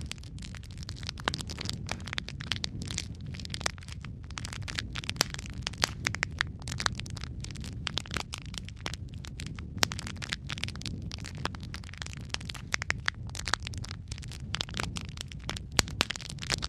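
Wood fire in a fireplace crackling, with many irregular sharp pops and snaps from burning logs over a steady low rumble of flame.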